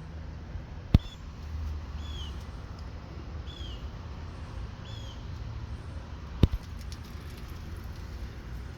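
A bird chirping over and over, one short call about every second and a bit, over a low steady rumble. Two sharp clicks stand out, about a second in and again about six and a half seconds in.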